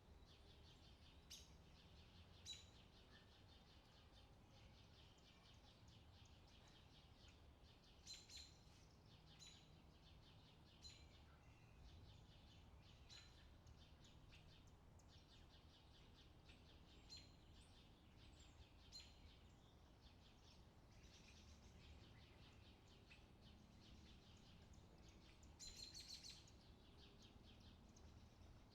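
Faint bird calls: short, high chirps scattered throughout, bunched more thickly near the end, over a low, steady outdoor background.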